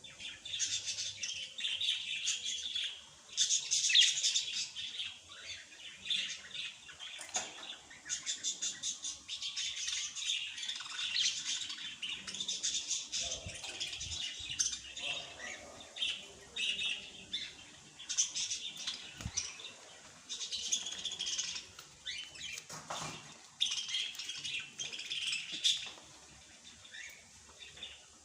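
Small birds chirping and twittering in quick, overlapping bursts of high notes, with short pauses between bursts.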